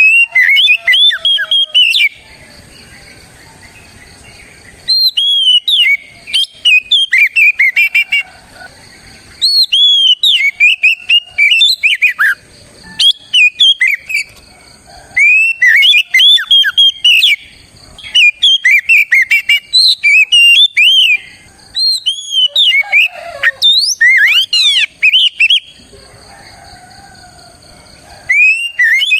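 Oriental magpie-robin (kacer) singing loudly, a rich run of varied whistled notes sliding up and down. The song comes in bouts of a few seconds with short pauses between them.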